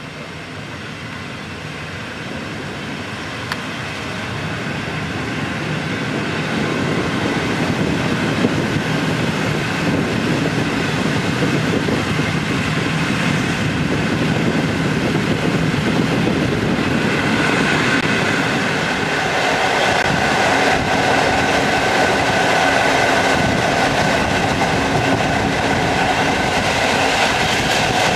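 A passenger train running on the rails. It grows louder over the first several seconds, then holds steady. From a little past the middle, a steady whine of several tones joins the rumble.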